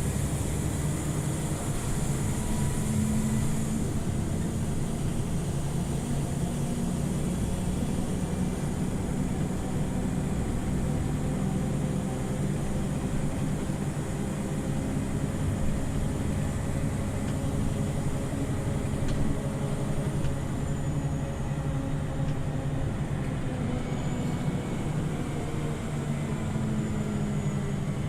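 Scania OmniLink CL94UB city bus under way, heard from inside: the engine runs steadily over a constant road and drivetrain noise, and its note rises and falls gently a few times as the bus changes speed.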